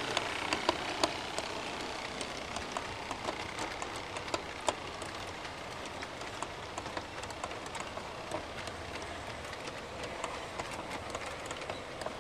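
Large-scale Aristo-Craft model freight train cars rolling past on track: a steady rolling hiss from the wheels, with many small, irregular clicks.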